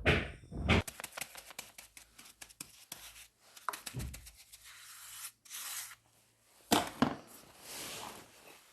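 Bricklaying sounds: a steel trowel scraping and working cement mortar in a run of quick scratches and clicks, then one sharp knock about seven seconds in.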